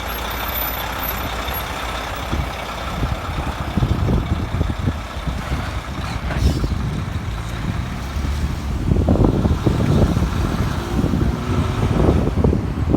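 Mack Pinnacle semi truck's diesel engine running with a steady low rumble, growing louder and more uneven from about nine seconds in.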